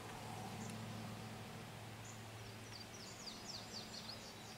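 A songbird singing a quick run of short, high, falling chirps, starting about two and a half seconds in, over a faint steady low hum.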